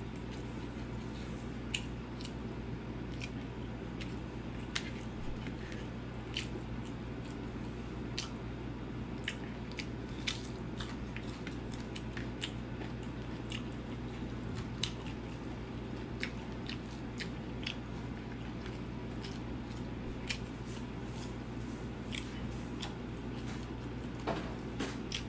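Close-up mouth sounds of a person eating rice and curry by hand: chewing, with many short wet clicks and lip smacks scattered irregularly over a steady low hum.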